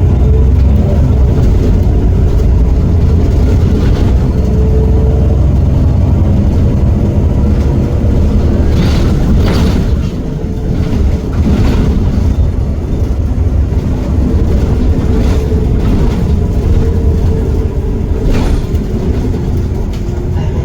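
Heuliez GX327 city bus driving, its Iveco Cursor 8 six-cylinder diesel running with a heavy low rumble and a whine that wavers in pitch. Loudness dips briefly about halfway through, and several sharp knocks or rattles come through.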